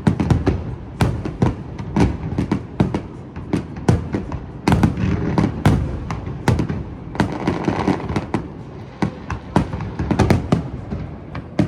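Fireworks display: bangs of exploding shells in quick, uneven succession, several a second.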